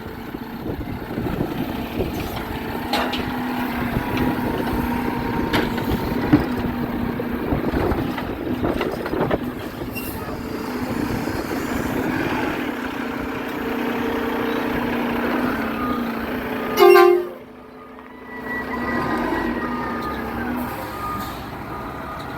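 Garbage truck engine running steadily with scattered clanks. About two-thirds of the way through comes one short, loud horn toot.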